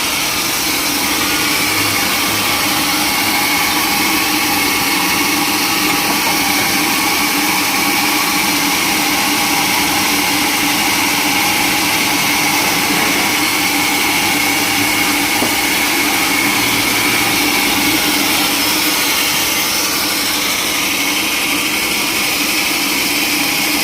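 Sawmill machinery running steadily, a continuous loud mechanical noise with a steady high whine.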